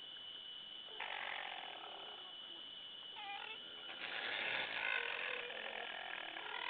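A wild animal giving hoarse, snore-like calls with some pitched parts, in three bouts: about a second in, briefly at about three seconds, and a longer, louder run in the second half. A steady high electronic tone runs underneath.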